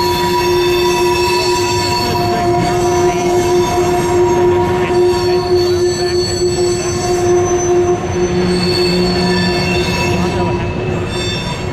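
Freight train of loaded grain covered hoppers rolling past over the bridge, the wheels squealing steadily in several high tones over the rumble of the cars. The sound eases slightly near the end as the last cars go by.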